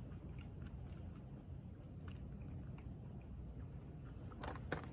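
Close-up chewing of a crunchy chocolate chip cookie, with a few crisper crunches near the end. A steady low rush of heavy rain, loud like a car wash, runs underneath.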